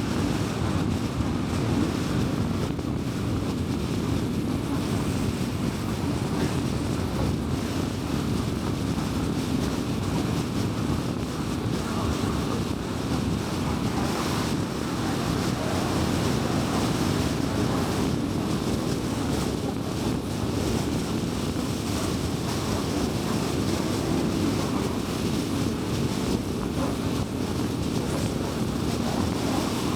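Steady road noise of a car driving at speed on a highway: tyre roar on the road surface with wind rush.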